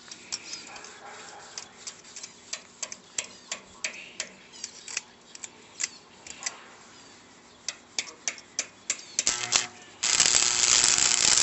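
Stick-welding arc: irregular sharp cracks and pops as the electrode is struck against the steel, then about ten seconds in the arc catches and runs as a loud, steady crackle.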